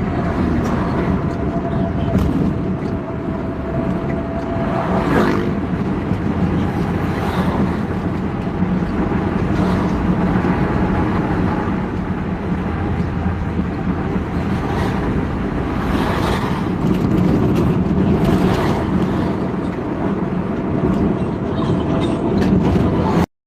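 Road traffic with heavy trucks and buses going by: a steady low engine rumble and tyre noise, swelling every couple of seconds as vehicles pass. The sound drops out briefly just before the end.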